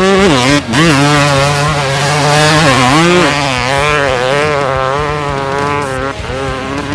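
Dirt bike engine revving hard, its pitch rising and falling again and again, with a brief drop in sound about half a second in.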